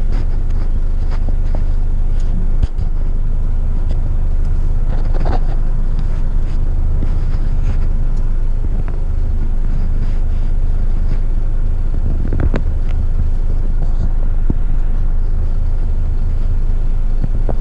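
Heavy eight-wheeler twin-steer waste truck's diesel engine running steadily, a low drone as heard from inside the cab, with a few short clicks and knocks.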